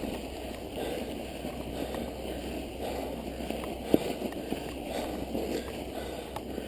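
Mountain bike ridden through snow: continuous tyre and drivetrain noise, with a sharp click about four seconds in.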